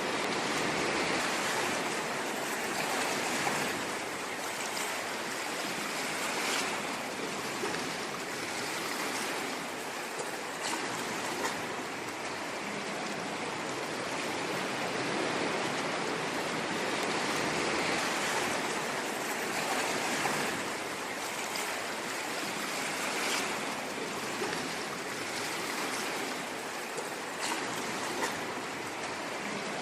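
Ocean waves washing on a shore: a steady rush of surf that swells and eases gently in loudness.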